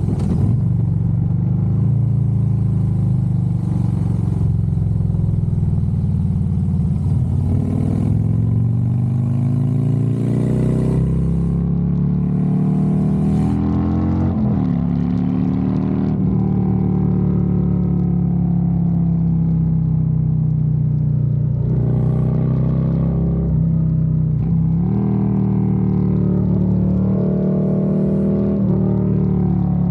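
Harley-Davidson Road Glide's V-twin engine running under way, its note rising as the bike accelerates and dropping back at several shifts or throttle changes, notably about halfway through and again near the end.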